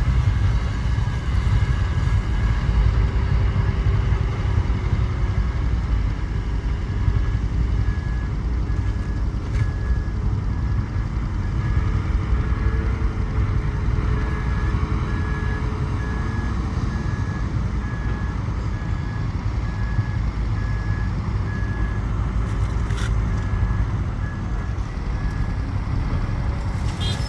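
Heavy earthmoving machine's diesel engine running with a steady low rumble, while a reversing alarm beeps evenly, a little over once a second, through much of the middle: the machine is backing up.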